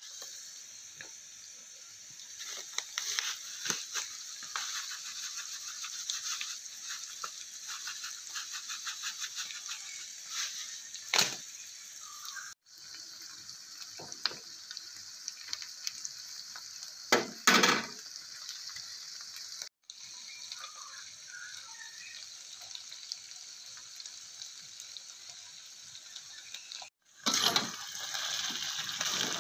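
Sambal and beans frying in a wok, a steady sizzling hiss, with a wooden spatula scraping and clicking against the pan through the first part and a few louder knocks. The hiss grows louder near the end.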